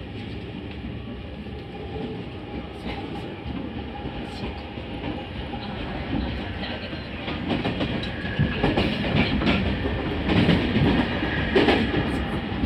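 Electric train running, heard from inside the car at a door: a steady rumble of wheels on rail with clicks and knocks from rail joints and points. The clatter grows louder and busier in the second half.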